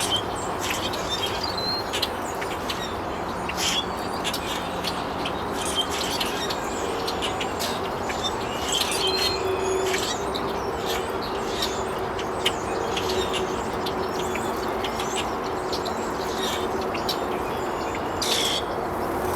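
Birds chirping in many short, high calls over a steady background noise.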